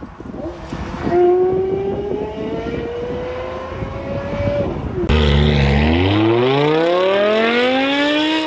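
Sports car engine and exhaust accelerating hard, the engine note climbing steadily for several seconds before a brief drop. At about five seconds a louder car engine takes over: its pitch dips, then rises in one long, steady pull as it revs up.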